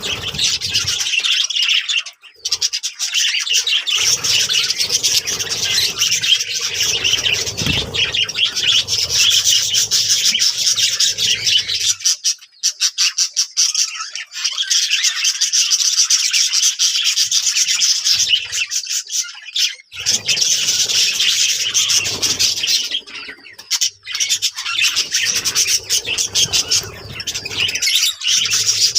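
Budgerigars chattering and warbling: a dense, continuous run of rapid chirps and squawks, with a few short lulls.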